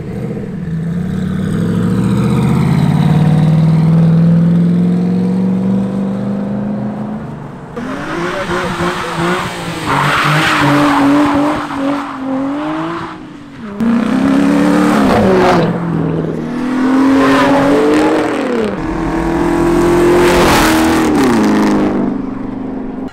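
Sports car engines accelerating hard as they pull away. First a red Ford Mustang's engine climbs steadily in pitch for about seven seconds. Then a Nissan 350Z's engine revs up and drops back again and again as it shifts gears.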